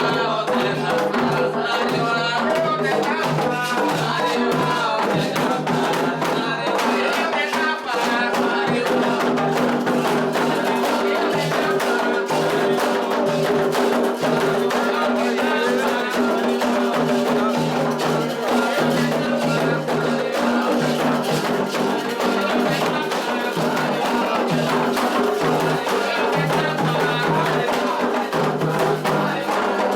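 Candomblé toque for Oxossi and Ossaim: hand drums played in a fast, dense rhythm under group singing.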